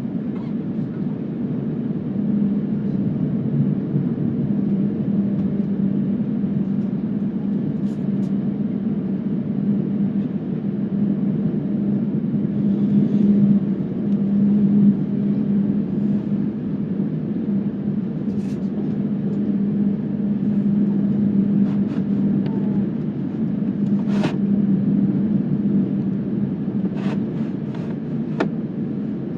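Jet airliner cabin noise: a steady low drone from the engines and airflow with a constant hum, and a few faint clicks and rattles in the second half.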